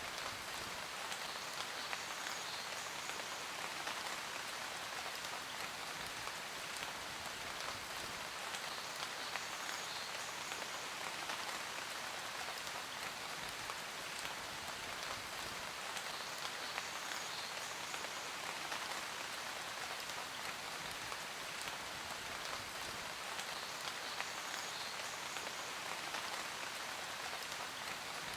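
Steady rain falling: a continuous hiss dotted with the fine ticks of individual drops hitting a surface.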